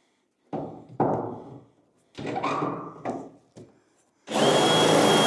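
A few short scraping and rubbing sounds on the metal panel, then a little over four seconds in a power tool starts up and runs steadily with a constant high whine.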